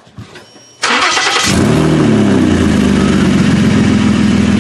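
The 2011 Ford Edge's 3.5 L Duratec V6 is started about a second in: a short rough burst of cranking, then it catches and settles into a loud, steady idle. The exhaust is blowing out through the Y pipe's flex section, which has broken where it flexes.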